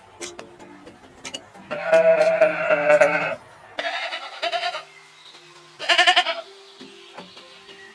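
Bleating: a long wavering call about two seconds in, followed by two shorter calls.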